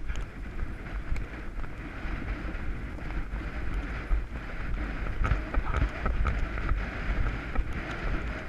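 Wind buffeting the rider's camera microphone as the horse goes fast, a steady rumbling rush with scattered knocks from hooves and tack.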